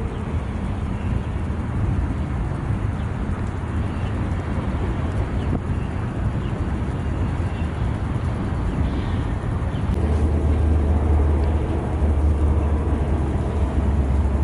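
Freight train passing with a steady low rumble. About ten seconds in, a louder low engine hum takes over.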